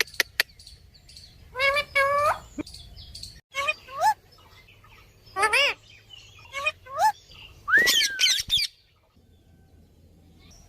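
Pet parrot calling: a string of short squawks and chirps that bend up and down in pitch, ending about eight seconds in with a louder run of calls and a swooping whistle.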